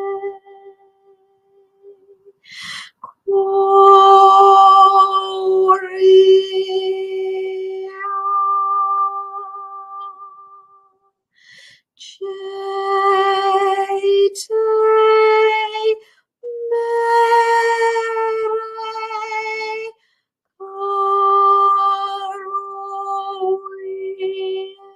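Wordless vocal toning by a woman: a series of long held notes on open vowels, separated by short pauses for breath. The notes rise a little in pitch partway through and then settle back to the first note.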